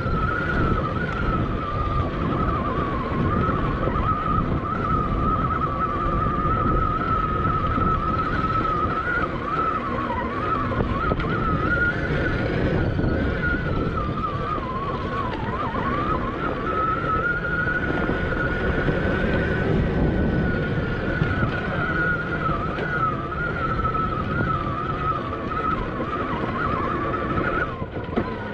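Electric dirt bike motor whining as it is ridden, the pitch wavering up and down with speed, over heavy wind buffeting on the action camera's unshielded microphone.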